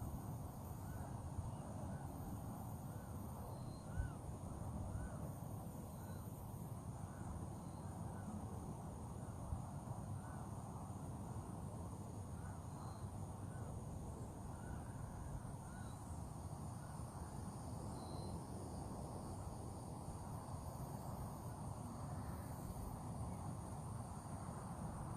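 Outdoor birdsong: a bird calling over and over in short rising-and-falling notes, over a steady high insect drone and a low, even rumble.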